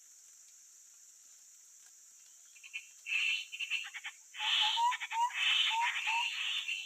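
Grey-headed babbler calls: harsh, noisy chattering bursts start about two and a half seconds in and become a dense run of chatter with quick little rising notes over the last two seconds or so.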